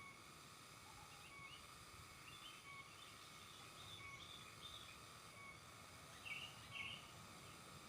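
Faint sooty-headed bulbul calls: short chirpy notes, with two louder calls near the end.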